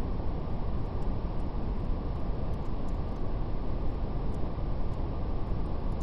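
Steady brown noise, a deep even rushing hiss strongest in the low end, with a faint, scattered crackle of a fire on top.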